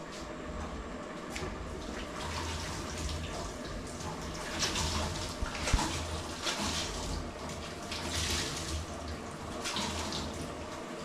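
Water running from a tap and splashing unevenly, with one sharp knock about halfway through.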